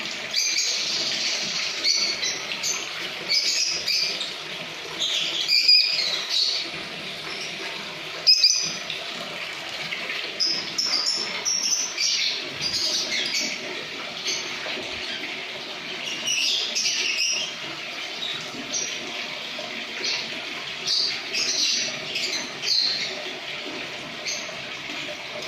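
A colony of lovebirds chirping and chattering, many high, quick calls overlapping without a break, over a steady rushing noise.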